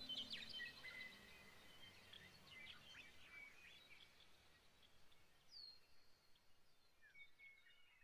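Faint birdsong: scattered short chirps and whistles, one clear falling whistle a little past halfway, thinning out and fading toward the end. The tail of a music track dies away at the very start.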